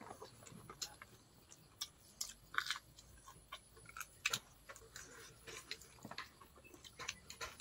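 People eating rice and duck curry with their hands: faint chewing, with scattered small mouth clicks and smacks.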